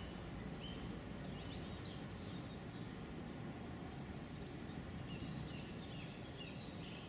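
Quiet outdoor ambience: a steady low background rumble with small birds chirping faintly, including a run of short repeated chirps near the end.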